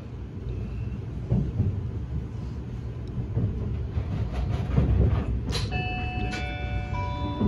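Steady low rumble of an E257 series limited express running, heard inside the passenger car. About five and a half seconds in comes a click, then a chime of several sustained electronic notes from the train's speakers.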